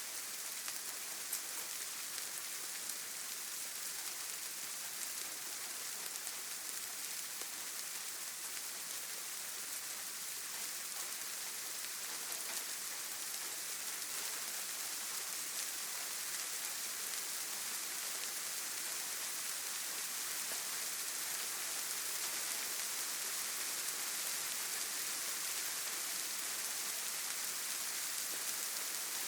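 Steady rain falling: a dense, even hiss with faint scattered drop ticks, growing slightly louder in the second half.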